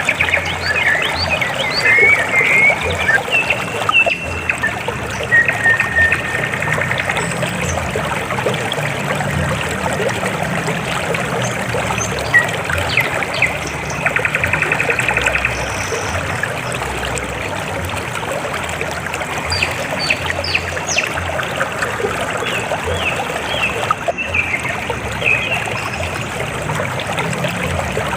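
River water flowing and trickling steadily, with short high chirps scattered over it.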